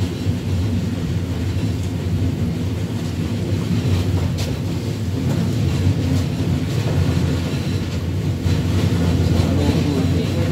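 A train running slowly along the track at about 30 km/h, heard from inside its rear cab: a steady low rumble with a few faint clicks.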